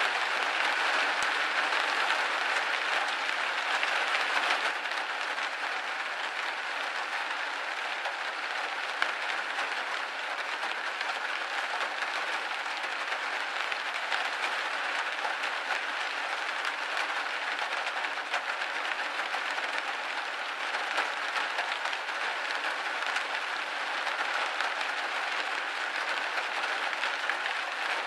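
Steady rain hitting a window: a dense, even hiss of many drops, a little louder for the first few seconds.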